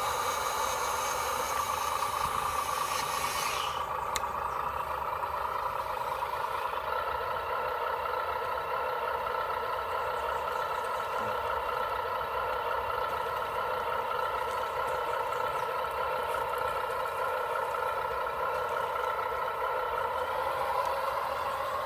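Radio-controlled 1/14-scale truck running, a steady layered drone from its drivetrain or sound unit. A high hiss drops out with a click about four seconds in.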